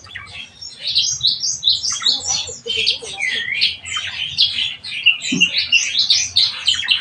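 Javan myna (jalak kebo) calling: a rapid, unbroken stream of short whistled notes sliding up and down in pitch.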